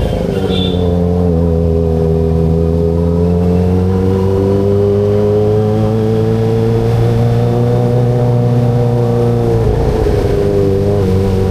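Kawasaki ZX25RR's 249 cc inline-four engine running at a steady moderate speed under way, its pitch rising slowly and then holding. About ten seconds in, the note breaks briefly and settles slightly lower.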